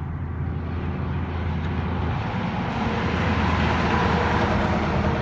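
Heavy truck approaching and passing on a highway, with a steady low engine note under tyre and road noise that builds from about two seconds in and is loudest near the end.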